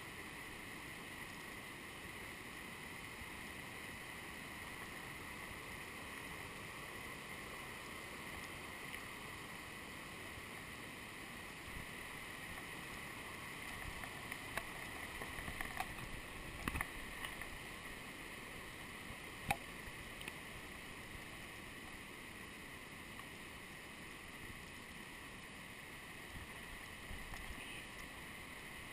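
Steady rushing of a mountain stream in a rocky creek bed, with a few sharp knocks and clicks about halfway through.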